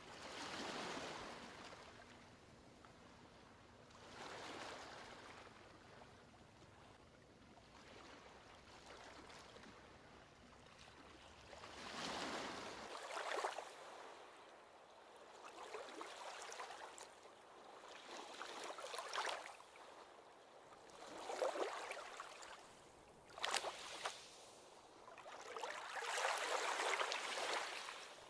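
Small ocean waves washing up on a beach, rising and falling in swells every few seconds. There are a few sharper splashes, the clearest about halfway through and in the last third.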